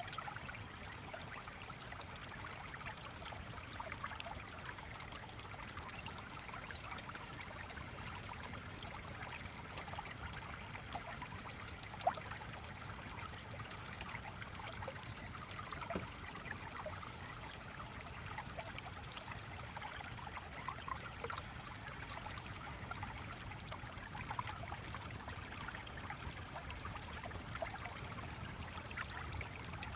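A small stream trickling and flowing steadily, with a few brief clicks or pops, the loudest about twelve seconds in.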